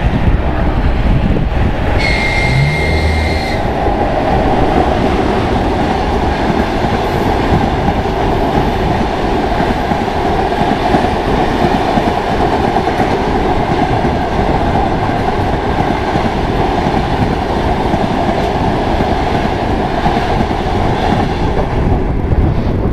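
Passenger train hauled by an EP1M electric locomotive rolling past at speed: the steady, loud noise of the coaches' wheels running on the rails. About two seconds in, a steady high-pitched tone sounds for about a second and a half.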